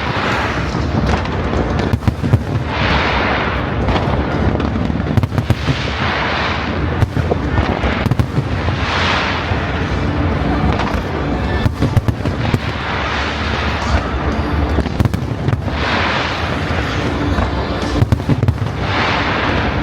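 Fireworks display: a continuous barrage of shell bursts and bangs with a deep rumble underneath, and a hissing crackle rising every two to three seconds.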